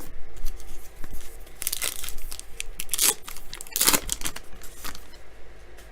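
A trading card pack's wrapper being torn open and crinkled, in a few loud rips around two, three and four seconds in.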